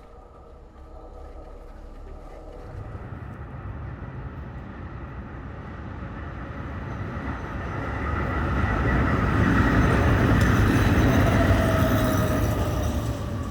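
A train approaching and passing, its rumble growing steadily louder to a peak about ten seconds in, with a whine that falls in pitch near the loudest point before easing off.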